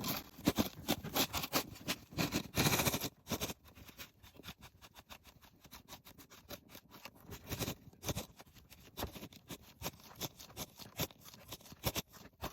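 A shovel scraping and digging in quick, irregular strokes, with a longer, louder scrape about two to three seconds in.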